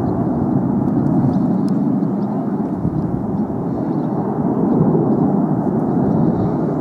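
Red Arrows BAE Hawk T1 jets flying their display, a steady jet roar that swells a little about five seconds in.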